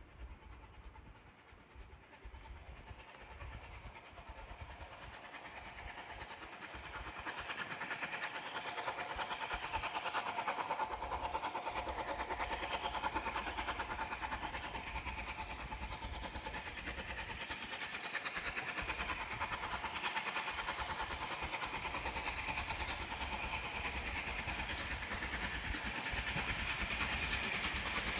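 Steam-hauled train drawing near, growing louder over the first ten seconds, then running by steadily.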